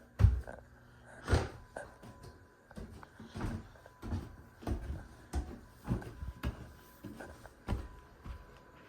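A single sharp thump just after the start, then a run of regular footsteps, about three every two seconds, as someone climbs stairs.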